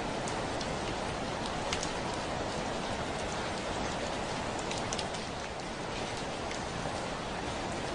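Steady heavy rain hissing on a window, with scattered sharp ticks of single drops striking the glass.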